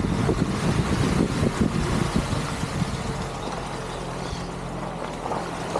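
A vehicle's motor running with a low rumble that eases to a quieter, steady hum about halfway through.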